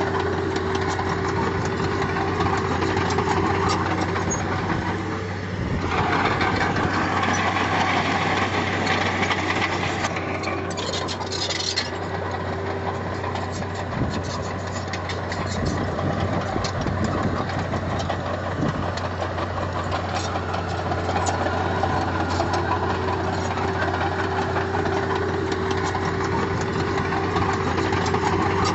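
Heavy diesel engine of earthmoving machinery running steadily, pulling harder for a few seconds about six seconds in, with a brief hiss about ten seconds in.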